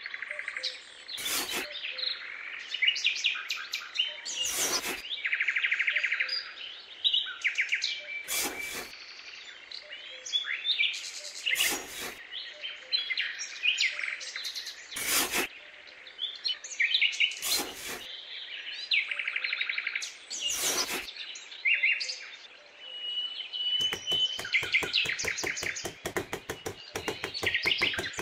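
Small birds chirping and trilling steadily. A sharp scrape of a small trowel in sand comes about every three seconds, and near the end a fast run of scraping as the trowel digs out sand.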